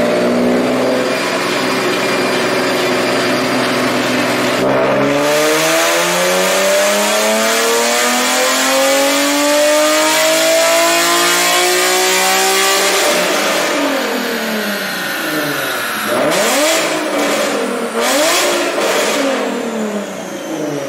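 Nissan 370Z's 3.7-litre V6 under hard acceleration. The engine note climbs steadily for several seconds from about five seconds in. Then the revs drop and swing quickly up and down, with short bursts of rushing noise near the end.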